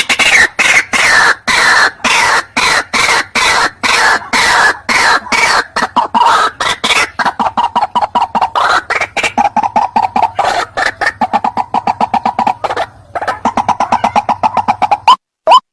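White-breasted waterhen calling: a fast, continuous run of short repeated notes. The notes slide downward in pitch over the first few seconds, then settle at one pitch and come quicker and quicker. Near the end a few sharper rising notes begin.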